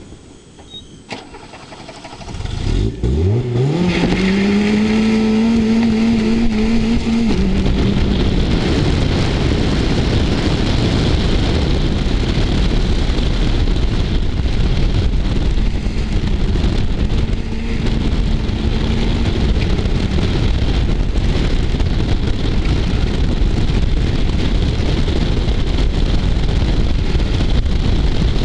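VW Polo 86c slalom car's engine revving up sharply about two and a half seconds in and holding high revs for a few seconds, then running on under heavy wind noise on the outside-mounted microphone as the car drives.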